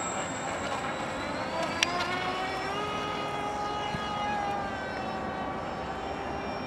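Electric motor and propeller of a radio-controlled seaplane whining in flight, the pitch rising a little then slowly falling as it flies. A single sharp click about two seconds in.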